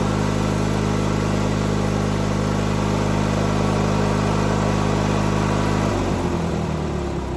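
Riding lawnmower engine running at a steady speed, then about six seconds in it stumbles and its pitch drops and wavers as it runs unevenly, not happy after a hard start.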